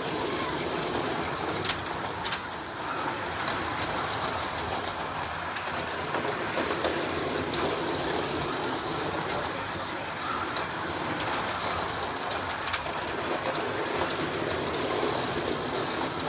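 Several Carrera Digital 1:32 slot cars running laps on a plastic track: a steady whirring and rattling of small electric motors and wheels, with a few sharp clicks.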